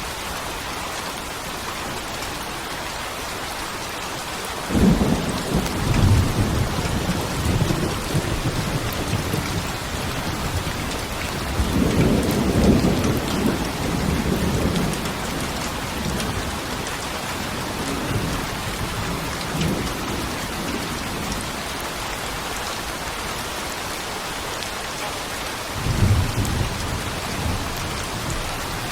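Steady rain falling with rolling thunder: a rumble starts suddenly about five seconds in and rolls on for several seconds, a longer, louder one comes around the middle, and a shorter one near the end.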